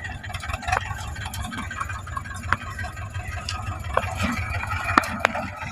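Tractor diesel engine running, a steady low pulsing rumble, with scattered short clicks over it.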